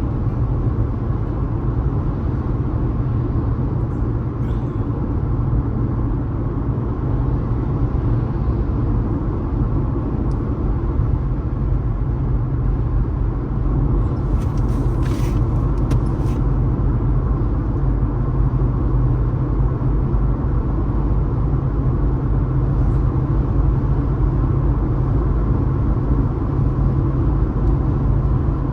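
Steady low rumble of a car driving at speed, its tyres and engine running evenly, with a short hiss about halfway through.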